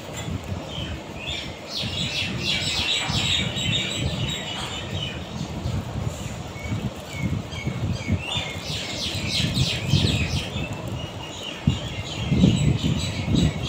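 Small birds chirping in two spells of rapid, high twittering over a low, uneven rumble.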